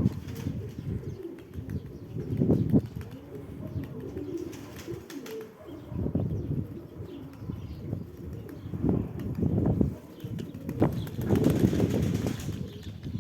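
Domestic pigeons cooing, with wings flapping now and then; the sound swells and fades, loudest near the end.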